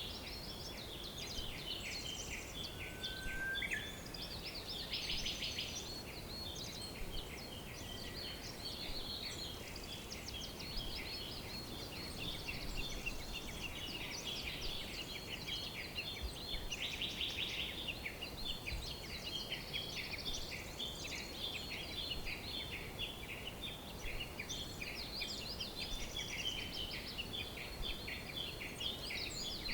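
Many songbirds chirping and trilling at once, a dense overlapping chorus of quick high notes, over a steady background hiss.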